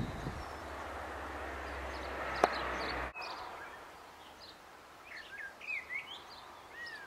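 Small birds chirping and singing outdoors over a rushing noise with a low rumble, broken by a sharp click about two and a half seconds in. The rushing stops suddenly a little after, and several clear rising and falling bird calls follow near the end.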